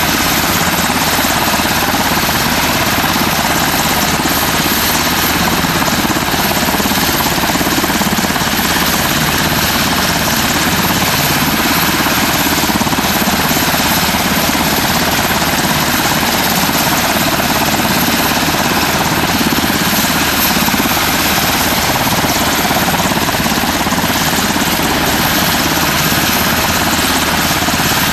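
Army UH-60 Black Hawk helicopter running loud and steady, its twin turbine engines whining and its rotor turning.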